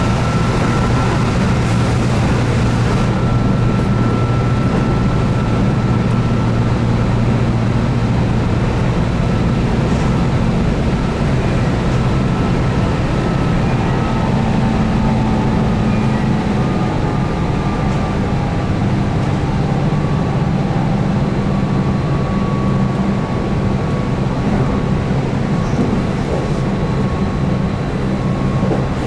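Keihan 8000 series electric train running at steady speed, heard inside the car: a constant low rumble of wheels on rail with the DC traction motors humming at a near-constant pitch.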